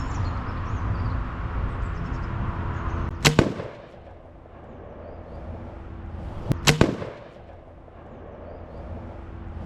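Umarex AirSaber pre-charged pneumatic arrow rifle shots: a sharp crack about three seconds in and another about three and a half seconds later, each heard as two cracks close together.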